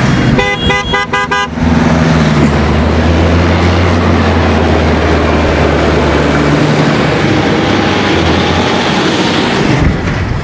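A vehicle horn sounds a rapid run of short toots, then a tractor engine runs with a loud rushing noise and a low steady hum.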